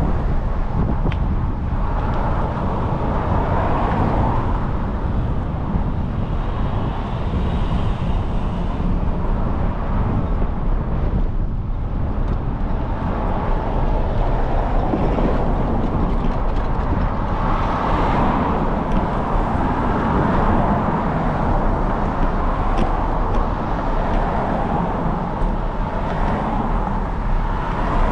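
Road traffic passing: cars going by on city streets over a steady low rumble.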